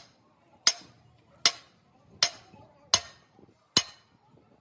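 Hand hammer striking metal: five sharp, ringing blows at an even pace, about one every three-quarters of a second.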